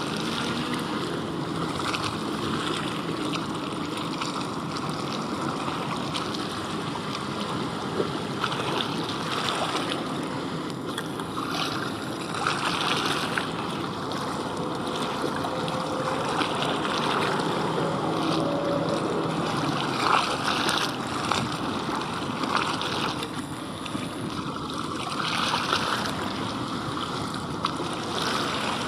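Water splashing and lapping steadily at the waterside, with a few brief louder splashes.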